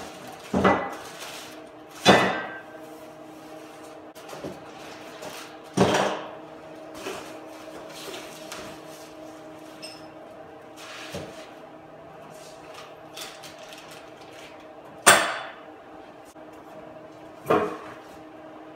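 Steel parts of a motorcycle dolly being handled and set down: a series of separate sharp clanks and knocks, the loudest about two seconds in and near fifteen seconds in, over a steady hum.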